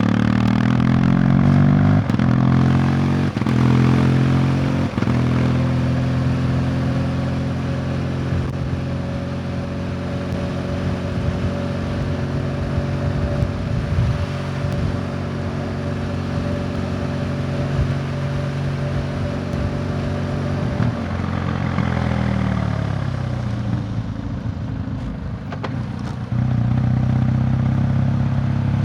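Motorcycle engine on the road, accelerating through several quick gear changes in the first five seconds, then holding a steady cruise. About twenty-one seconds in the pitch falls away as it slows, and near the end it picks up again, louder.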